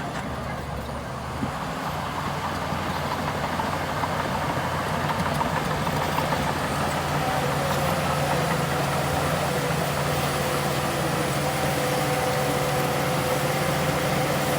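Heavy diesel engine of earthmoving machinery running steadily. It grows somewhat louder over the first several seconds, and a steady whine joins it about halfway through.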